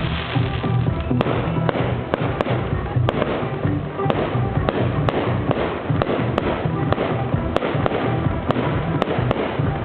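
Fireworks display: many irregular bangs and cracks from exploding shells, over music playing.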